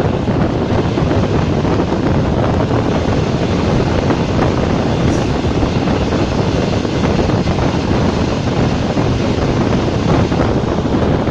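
Class 460 electric multiple unit running at speed: a loud, steady rush of running noise with wind buffeting the microphone.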